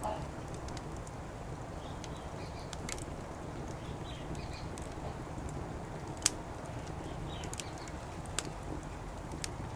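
Wood fire burning in a Coleman Fire Disk fire pit, with scattered sharp crackles and pops, the loudest about six seconds in, over steady low background noise. Faint short bird chirps come and go.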